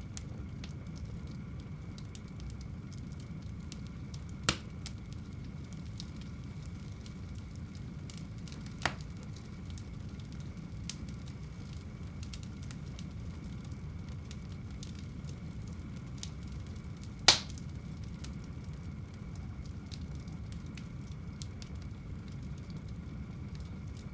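Wood fire burning in a home fireplace: a low steady rumble with faint, frequent crackling and three sharp pops, about four seconds, nine seconds and seventeen seconds in, the last the loudest.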